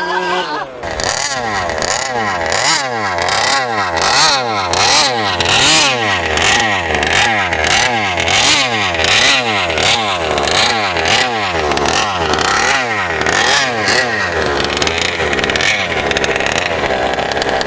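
Small two-stroke gas engine of a 1/5-scale RC truck revving up and down over and over, about twice a second, growing steadier near the end.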